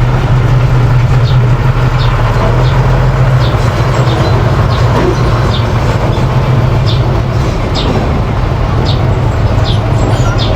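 Mini bulldozer's engine running steadily under work, with short high squeaks or clinks about once a second.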